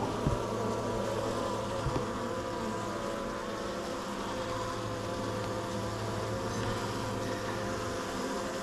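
Honeybees buzzing steadily around an open hive, a dense, even hum of many bees.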